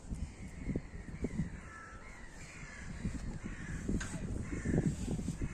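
Large birds calling repeatedly outdoors, a series of short harsh calls, over a low gusty rumble of wind on the microphone.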